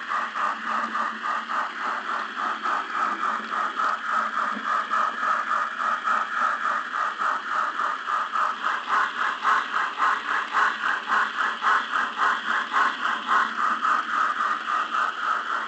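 A train running, with a fast, even rattling beat of about five pulses a second that grows a little louder about halfway through.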